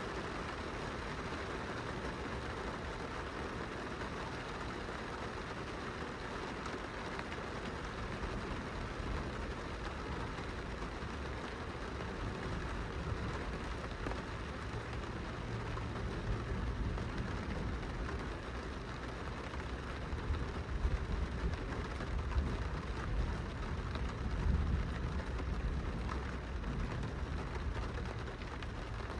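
Rain falling steadily on window glass, a constant patter of drops. A low rumble swells up in the second half.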